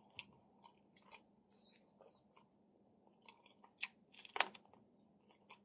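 Close-miked chewing with faint, sparse mouth clicks, then about four seconds in two crisp, crunchy bites into a fresh red pepper.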